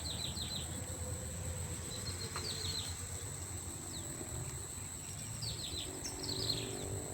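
Birds chirping in short runs of quick, falling notes, repeated several times, over a steady high-pitched insect-like whine and a low outdoor rumble.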